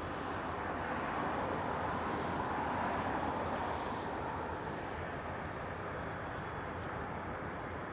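Train in the rail yard, heard as a steady rumbling noise that swells a couple of seconds in and then eases off.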